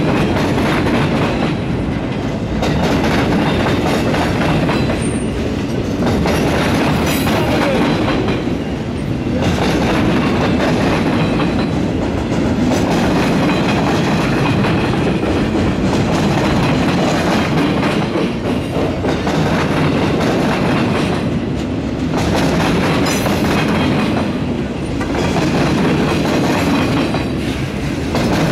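Wheels of a long string of circus-train flatcars rolling past close by and clattering over the rail crossing. The clatter is steady and loud, dipping briefly about every three to four seconds as each car goes by.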